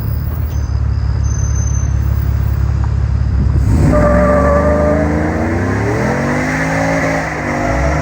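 Truck's 5.3-litre V8 on headers, a deep low rumble at first, then accelerating hard about four seconds in with the engine note climbing, easing briefly near the end and climbing again.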